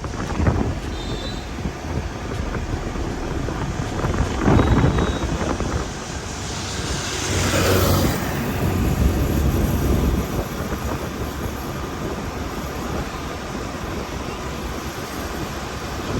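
Steady low rumble of a moving vehicle, with a brief rushing swell about seven seconds in.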